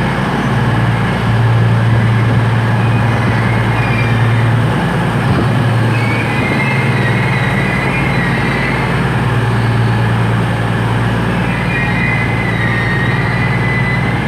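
Virgin Trains Class 221 Super Voyager diesel-electric multiple unit standing at the platform with its underfloor diesel engines idling in a steady low hum. A wavering high tone comes and goes twice over the hum.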